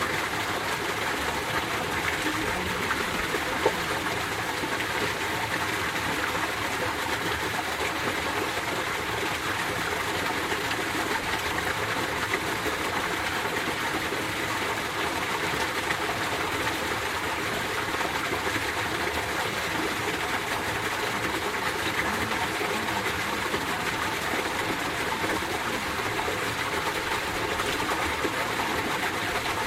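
Mountain valley stream in winter, water running steadily over rocks, with one brief click about four seconds in.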